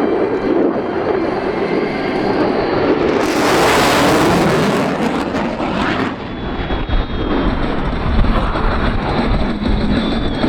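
F-22 Raptor's twin F119 turbofan jet engines running at display power, swelling to a loud rushing hiss from about three to six seconds in as the jet passes, then settling into a deep rumble.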